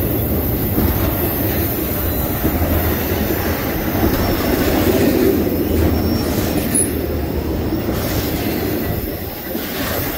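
Norfolk Southern intermodal freight cars rolling past on the rails: a loud, steady rumble of wheels on track that eases off slightly near the end.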